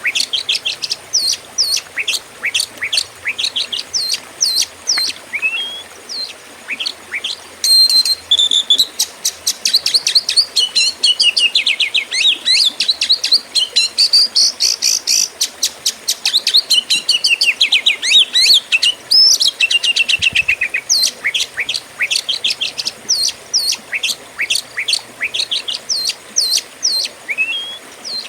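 Oriental magpie-robin (kacer) singing loud and hard, in the vigorous style of a contest bird: a string of sharp, down-slurred whistled notes that gathers into fast, dense runs of notes in the middle.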